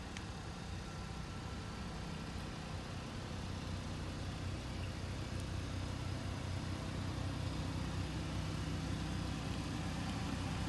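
Volkswagen Passat's engine idling, a steady low hum that grows slightly louder over the stretch.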